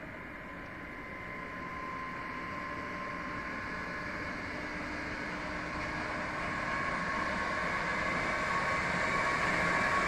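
Siemens Vectron electric locomotive hauling a container freight train as it draws near: steady rolling noise with a thin whine, growing steadily louder.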